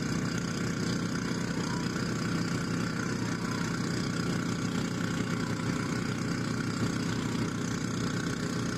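Yamaha YT1070 snowblower's engine running at a steady speed.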